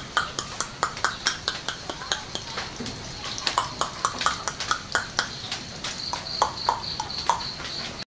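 Cucak jenggot (grey-cheeked bulbul) singing a rapid run of short, sharp chirps and clicking notes, several a second, with a brief held high note near the end. The song cuts off suddenly.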